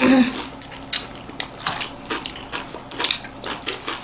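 Irregular small clicks and clinks of dishes and utensils at a meal, as food is being eaten, with a short vocal sound at the very start.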